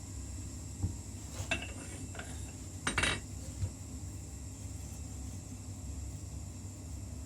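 Light metallic clinks and knocks, about five of them in the first four seconds and the loudest a short cluster about three seconds in, over a steady low hum.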